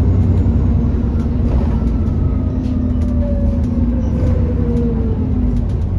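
Alexander Dennis Enviro400 E40D double-decker bus heard on board while running: a steady, loud low rumble with a whine that slowly falls in pitch.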